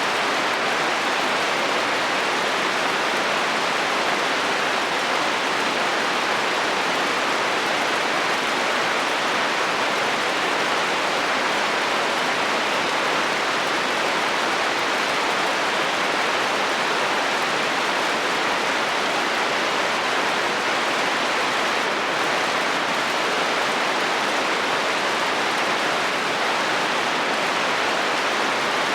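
Heavy rain falling on a metal roof: a dense, even hiss that holds steady throughout.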